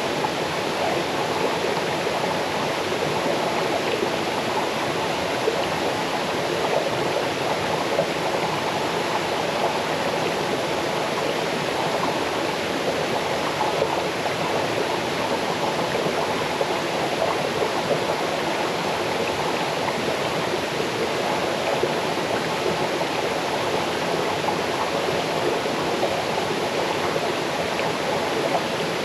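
Small waterfall cascading into a forest stream: a steady, unbroken rush of falling and babbling water.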